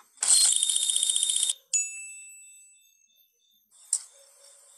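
Sound-effect clip: a rapid high-pitched rattle, about a dozen pulses a second, lasting a little over a second, then a single bright bell ding that rings out and fades over about a second. Near the end a faint outdoor hiss with insects comes in.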